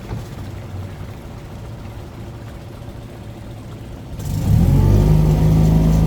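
Tour boat's engine: a low rumble, then about four seconds in it throttles up sharply and settles into a loud steady drone.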